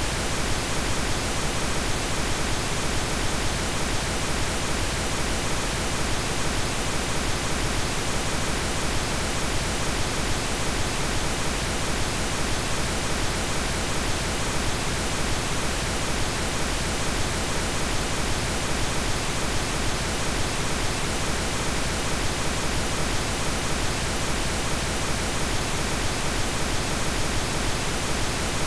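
Steady synthetic pink noise: an even hiss that does not change.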